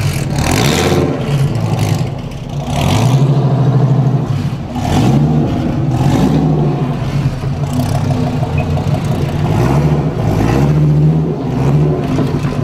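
Dodge Viper ACR's V10 engine revved repeatedly through its side-exit exhausts, the pitch climbing and dropping back about five times between steady running.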